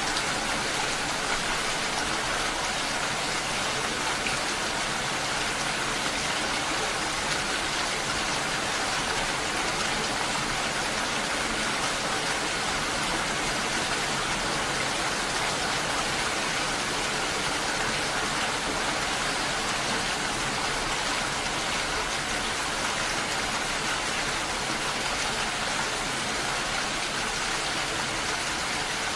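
Steady rain falling, a dense, even hiss with no breaks or changes.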